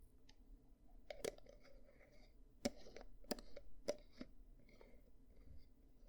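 Faint ear-cleaning sounds on an ASMR microphone ear: light scraping with a few sharp clicks, one about a second in and three more between about two and a half and four seconds in.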